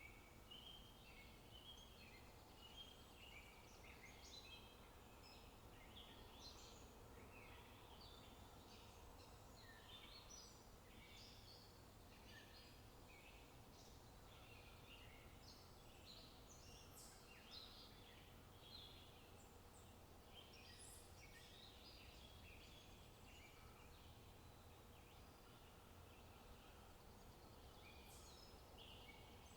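Faint, busy chirping of small birds in quick short calls throughout, over a low steady background hush.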